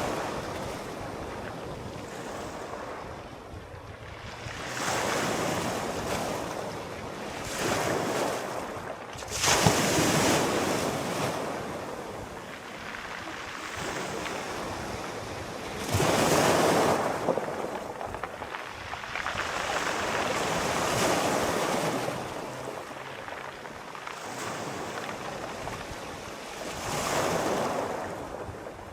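Sea waves breaking and washing in, swelling and fading in repeated surges a few seconds apart.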